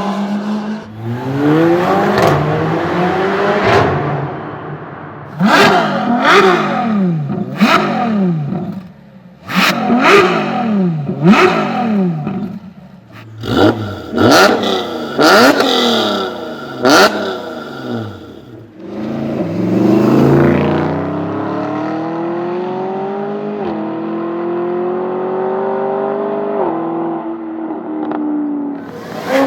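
A supercar engine is revved hard in a quick series of sharp blips, with loud cracks from the exhaust between them. It then accelerates away, its pitch climbing and dropping suddenly twice as it shifts up through the gears.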